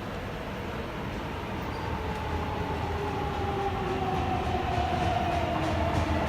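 Subway train running, with a motor whine that slowly falls in pitch under a steady rumble, the whole sound growing louder.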